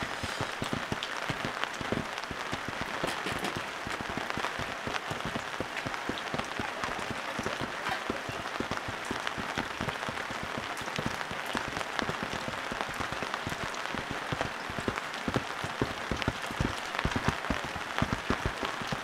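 Steady rain falling, with many close drops pattering and dripping, a few louder near the end.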